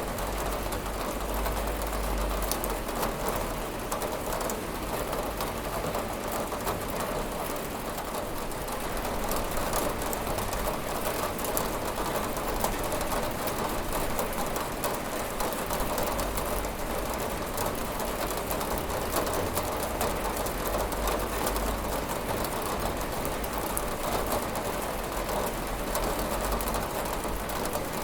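Steady rain falling on a window pane: an even, continuous hiss dotted with many small drop taps.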